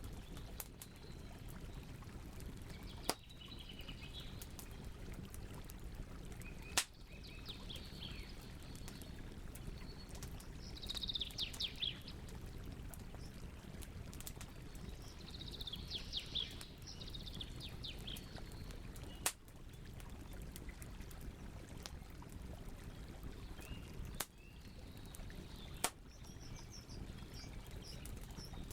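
Wood campfire burning with a steady low rush and about five sharp pops, while birds chirp in short bursts several times in the background.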